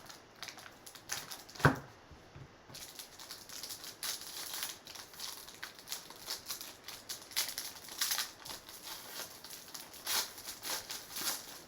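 Crinkling and rustling of trading-card packaging being opened by hand, in quick crisp crackles, with one sharp snap about a second and a half in.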